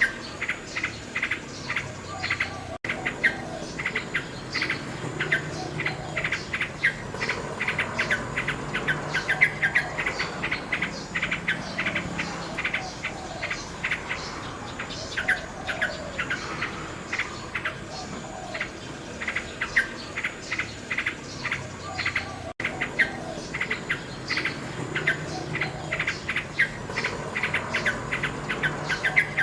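Nightingale singing in rapid runs of short, repeated chirping notes, with insects chirping along behind. The sound drops out for an instant twice.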